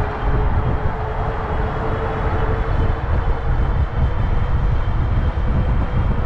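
Wind buffeting the microphone and tyre rumble from a fat-tire e-bike riding along at speed, with a faint steady whine from the electric motor underneath.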